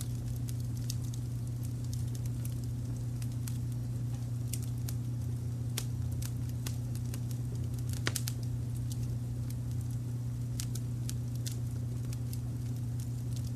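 Wood fire crackling with scattered sharp pops and snaps, a cluster of them about 8 seconds in, over a steady low brown-noise rumble.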